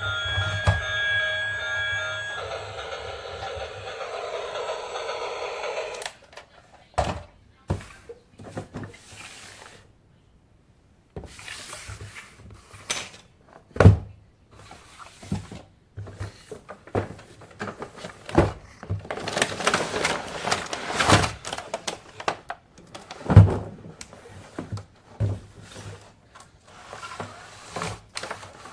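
Steady electronic tones with a hiss for about the first six seconds, cutting off abruptly. Then irregular knocks, thuds and rustling of toys and packaging being handled.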